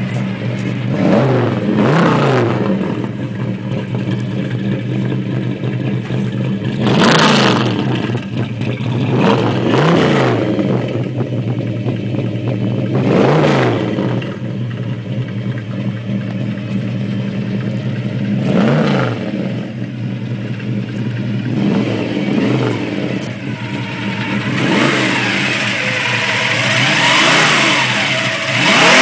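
Rat-rodded 1950 Chevrolet's V8 idling and being revved about eight times, each throttle blip rising and dropping quickly back to idle.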